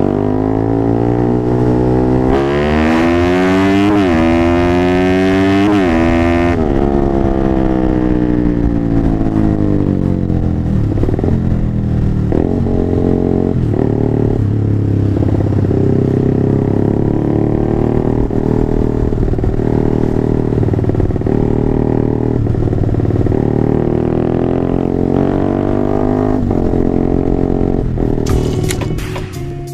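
Single-cylinder Honda CBR150R engine bored up to 180cc, running through a 3Tech EvoX X1GPR racing exhaust. The engine pitch climbs and drops sharply twice in the first few seconds as it is revved or shifted up, then falls away as it eases off. After that it runs on with the pitch gently rising and falling.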